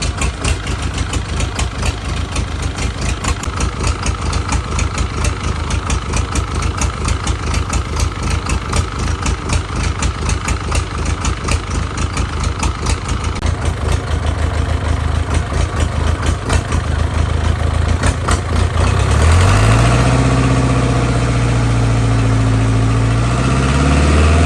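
Rebuilt Hyundai diesel engine running with a rapid, even knocking beat. About three quarters of the way through it is revved up, louder and higher in pitch, then held before easing off at the end.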